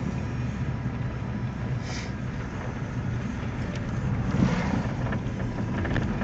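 Car driving slowly, heard from inside the cabin: a steady low drone of engine and road noise.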